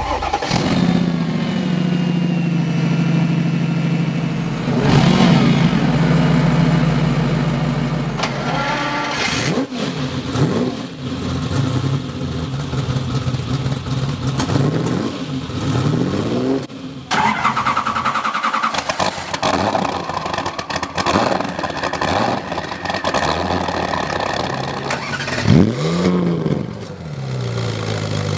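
Car engines revving and accelerating, with repeated rises and falls in engine pitch. The sound changes abruptly about seventeen seconds in, as if to a different car or take.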